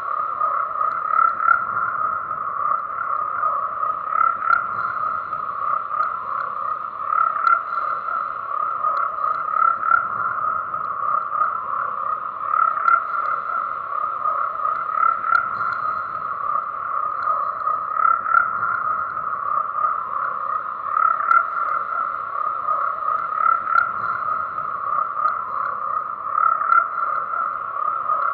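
A chorus of many frogs croaking at once, a steady, unbroken mass of overlapping calls.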